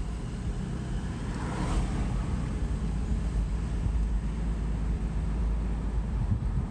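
Steady low rumble of a vehicle, with a brief louder rushing sound about one and a half to two seconds in.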